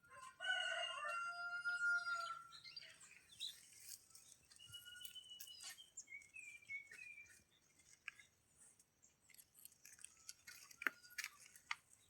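Birds calling: a loud held call with several stacked notes for about two seconds near the start, then scattered short whistles and chirps, with a few sharp clicks near the end.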